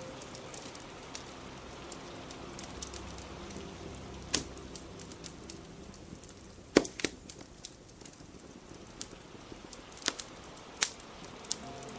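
Steady rain with a crackling wood fire: a scattering of sharp pops and snaps, the loudest about seven seconds in, over the even hiss of the rain.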